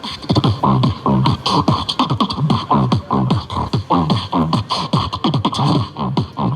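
Human beatboxing: a fast, steady rhythm of vocal kick-drum and snare sounds, the kicks dropping in pitch.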